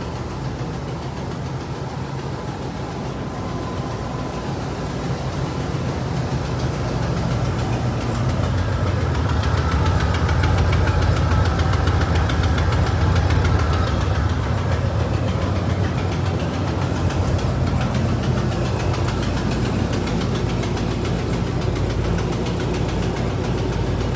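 Classic Cadillac V8 engine idling steadily, with a fast, even ticking over its low rumble; it grows louder for a few seconds in the middle.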